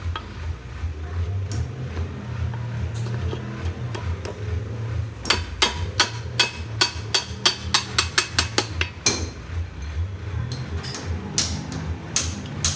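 Hammer striking metal in quick repeated blows, about three or four a second, from about five seconds in, then a few more blows near the end, over a steady low hum.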